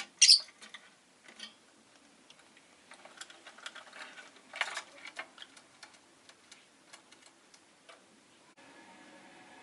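A rosy-faced lovebird gives one short, sharp, high chirp just after the start, followed by scattered light clicks and ticks, with a louder rustling burst about halfway. A low steady hum sets in near the end.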